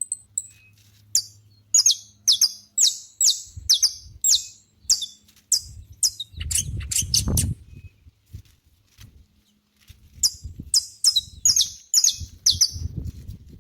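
Saffron finch singing: two runs of sharp, high chirps, each a quick downward-sweeping note, about two a second, with a pause of a couple of seconds between the runs. A low rumble sounds under the song for about a second midway through the first run.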